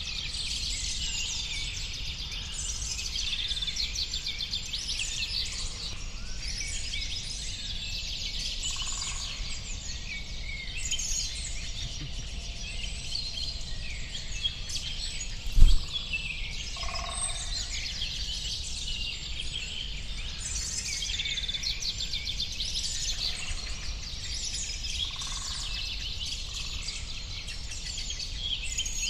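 Many small birds chirping and twittering continuously over a low, steady background rumble. A single sharp thump about halfway through is the loudest sound.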